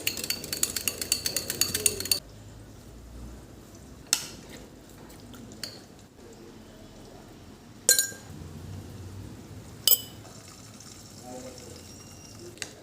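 Metal kitchen utensils and dishes clinking: a fast run of ringing metallic clinks for about two seconds, like a spoon worked against a steel vessel, then three single clinks spread over the rest.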